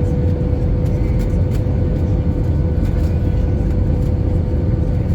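Steady cabin noise inside an Airbus A320: a low rumble of engines and airflow with a constant mid-pitched hum running through it.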